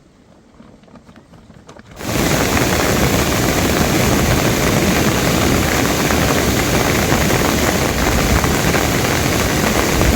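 Heavy rain pouring down, a loud, steady rush that starts abruptly about two seconds in.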